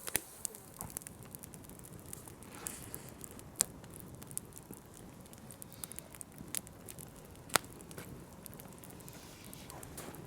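Wood campfire crackling, with scattered small snaps and two sharp louder pops, one near the middle and one a little later.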